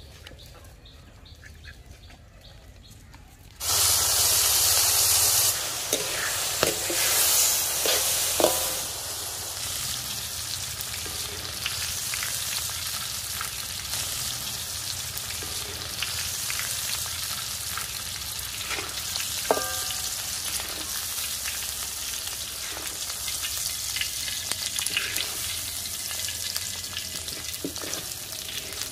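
Palm weevil grubs (coconut worms) frying in oil in an aluminium wok. A loud sizzle starts suddenly about four seconds in and settles into steady frying, with a metal spatula clicking and scraping against the pan as they are stirred.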